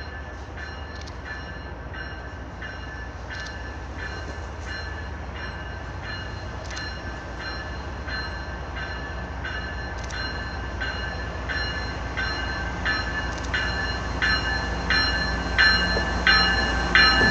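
An approaching train: a low steady rumble under a bell ringing evenly, about one and a half strikes a second, both growing louder toward the end.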